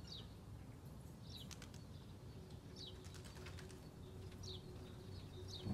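A small bird repeating a short falling chirp about every second and a half, with a few faint clicks, over a low steady background rumble.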